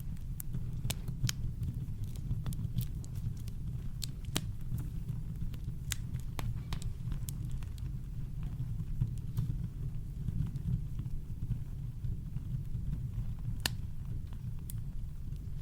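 Campfire crackling: irregular sharp pops and snaps scattered over a steady, deep brown-noise rumble.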